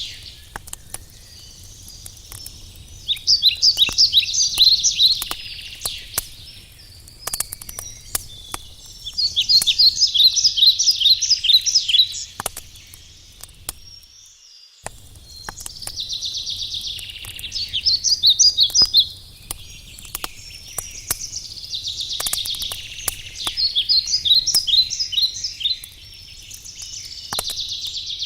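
A songbird singing: repeated phrases of rapid high notes, each lasting two to three seconds and coming about every six seconds. Under the song are the sharp, scattered pops and crackles of a wood campfire burning.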